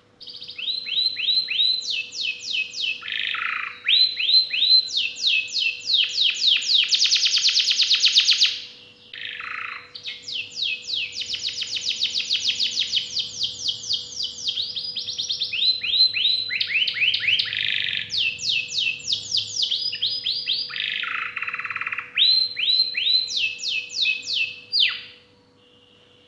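Domestic canary singing a long, vigorous song of rapid trills and rolls: phrases of quickly repeated falling notes, one running into the next, with a brief lull about nine seconds in. The song stops about a second before the end.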